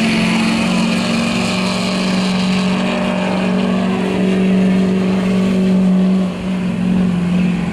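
Truck engine running hard at steady high revs as it pulls the weight sled down the track. The pitch holds steady, with a short dip about six seconds in before it picks up again.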